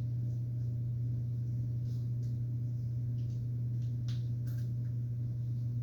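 Steady low electrical hum, with a few faint light clicks and taps from small parts or tools being handled.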